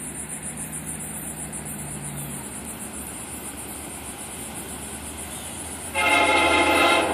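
Florida East Coast Railway freight locomotive's air horn sounding one loud blast about six seconds in, lasting about a second, as the train approaches the grade crossing.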